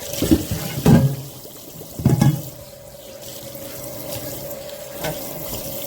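Kitchen tap running steadily into a sink while a pot is rinsed, with a few loud knocks of the cookware being handled, the loudest about a second and two seconds in.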